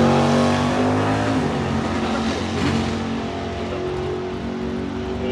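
Hemi V8 drag car's engine running hard as it pulls away down the strip. The sound is loudest in the first second and fades as the car gets farther away.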